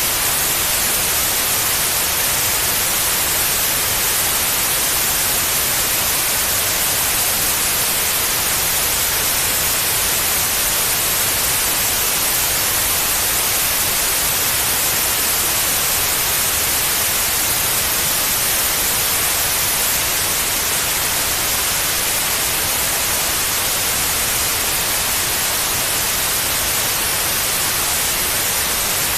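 Steady white noise: an even, unchanging hiss, brightest in the high frequencies, played as a sleep aid for babies.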